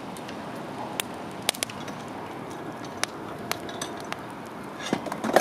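Wood campfire crackling: scattered sharp pops over a steady hiss, with a louder cluster of knocks near the end.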